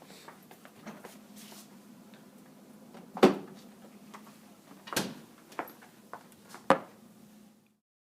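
A handful of sharp knocks and clacks of objects being handled, the loudest about three seconds in, over a faint steady hum; the sound cuts off to dead silence near the end.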